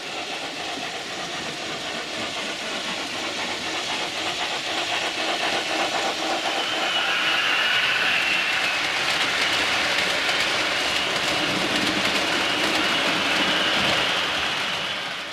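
A train running on rails, a steady clatter with hiss that grows louder over the first half.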